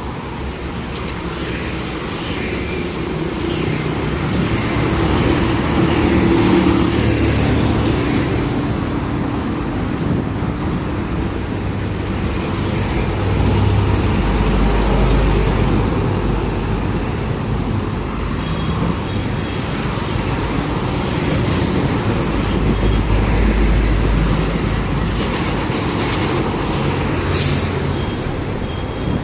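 Road traffic with heavy trucks and coaches passing: a continuous low engine and tyre rumble that swells as each big vehicle goes by, about three times. A short sharp hiss sounds near the end.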